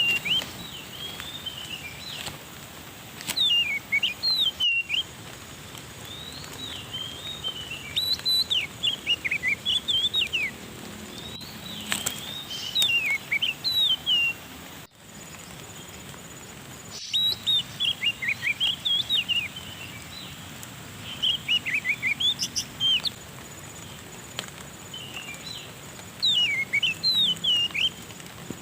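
A bird calling over and over in short bursts of quick, sweeping whistled notes, with a pause of a few seconds between bursts, over a steady background hiss.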